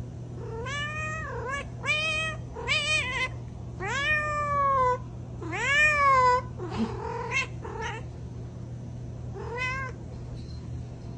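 A domestic cat meowing about seven times in a row, each meow rising and then falling in pitch. The loudest, longest meows come about halfway through, and a last, shorter meow comes near the end.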